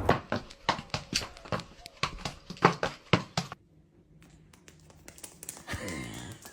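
A rapid, irregular run of sharp taps and clicks that stops abruptly after about three and a half seconds. It is followed by quiet room sound, with a faint pitched sound near the end.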